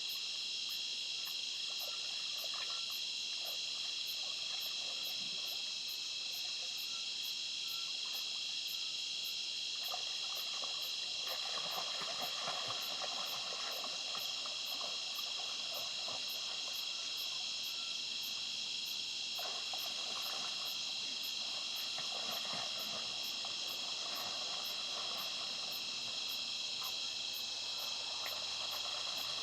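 Steady chorus of crickets and other night insects, with a very high chirp repeating about twice a second. A lower, rougher sound swells up a few times.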